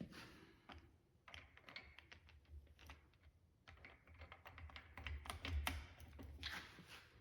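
Faint, scattered clicks and taps of hand tools and metal parts being handled during work on a Dana 70 axle, growing busier and louder about five to six seconds in.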